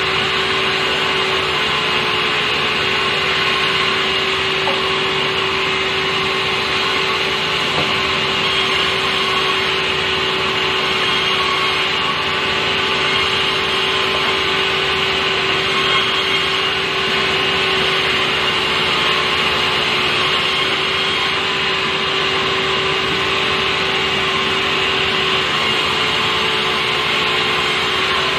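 Sawmill saw running steadily while sawing softwood timber, a constant loud mechanical noise with a steady hum and a high whine.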